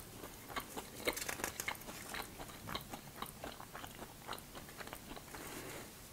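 A person chewing French fries close to a clip-on microphone: quiet, moist chewing with many small irregular clicks and smacks.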